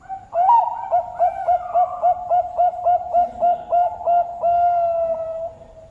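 Zebra dove of the Bangkok song strain (perkutut) singing: a rising opening note, then a quick run of about a dozen short coos at nearly four a second, ending in one long drawn-out coo. Fainter coos from another dove sound before and after.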